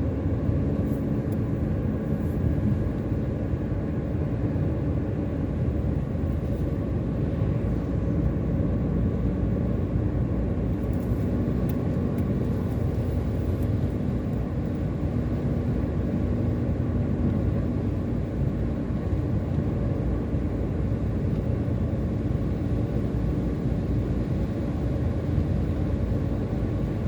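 Steady low road and engine rumble of a car driving, with a few faint brief hissy sweeps.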